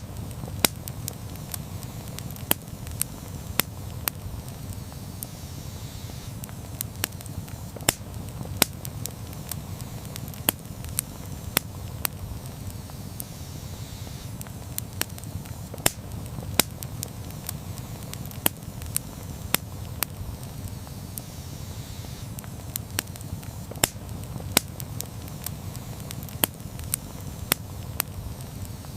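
Wood campfire burning: irregular crackles and sharp pops, several a second, over a steady low rumble.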